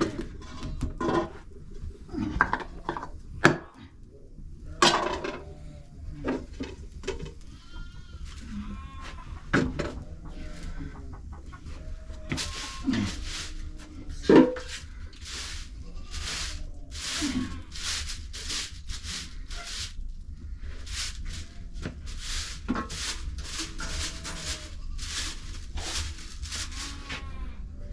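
Goats and sheep bleating, many short calls overlapping. From about twelve seconds in there is a dense run of short scraping or rustling noises.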